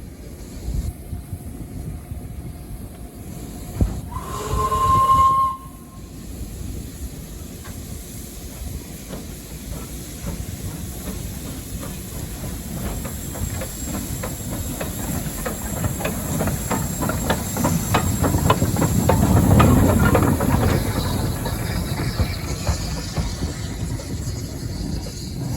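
Steam locomotive whistle sounding one short blast, followed by the locomotive working with a run of steady exhaust beats and hiss. The beats grow louder until about 20 seconds in, then ease off.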